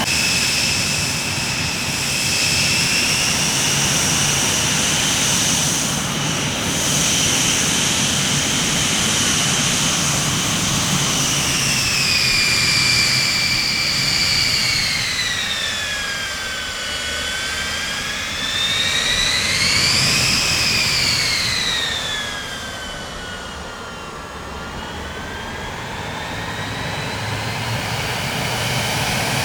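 Jet aircraft engines running, a high whine over a low rumble. The whine holds steady, slides down in pitch about halfway through, rises and falls again around twenty seconds in, then climbs back near the end.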